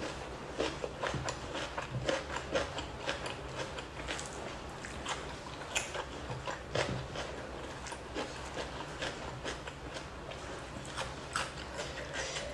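Close-miked eating: a person biting and chewing a mouthful of crisp food, with many irregular crunchy clicks and wet mouth sounds. The meal is rice, cucumber and fish skin eaten by hand.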